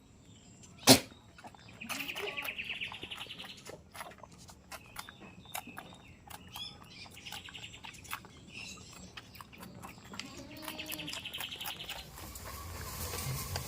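Goats bleating with a wavering, buzzy call, three times: about two seconds in, around seven seconds and near eleven seconds, among small bird chirps. A single sharp knock about a second in is the loudest sound.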